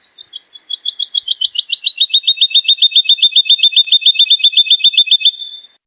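Woodlark singing one long phrase: a rapid series of repeated liquid notes, about seven or eight a second, that starts soft and high, slides slightly lower and louder over the first two seconds, then runs level and ends in a short held note.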